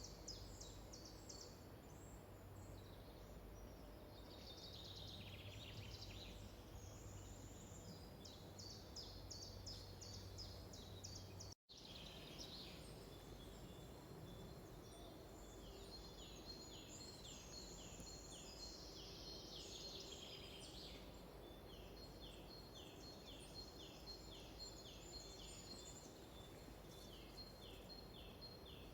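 Faint birdsong: several birds singing, repeating quick series of short, high, downward-sweeping notes. The sound drops out completely for an instant a little before the middle.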